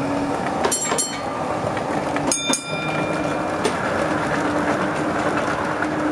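O gauge model train running along the track: a steady hum with a few sharp clicks.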